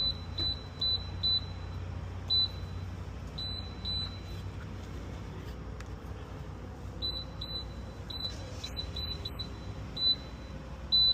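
Fuel pump keypad beeping as buttons are pressed to enter card prompts: about fifteen short, identical high beeps in irregular clusters, with a pause of about three seconds in the middle, over a steady low hum.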